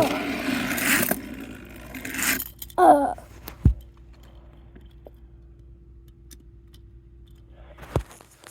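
Toy trains being handled, clattering and scraping for a couple of seconds. A short wavering voice sound comes about three seconds in, then a faint steady hum with two sharp clicks.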